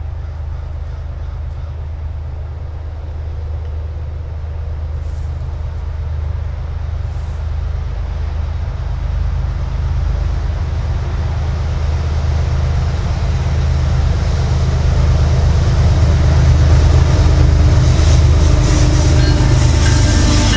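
Pair of GE ES44AC diesel locomotives at the head of a long freight train approaching: a steady low engine rumble that grows louder throughout, with wheel and rail noise filling in near the end as the lead unit draws level.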